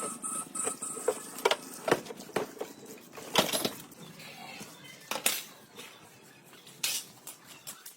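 Irregular sharp clinks and knocks of metal parts and hand tools being handled, about a dozen strikes spread unevenly.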